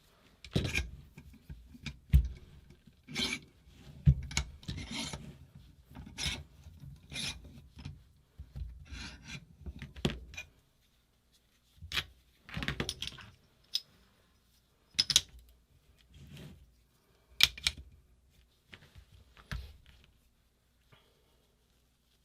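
Irregular scraping and rubbing strokes, roughly one a second with sharp clicks in some, from hand work on the metal parts of a paintball marker. The strokes stop about twenty seconds in.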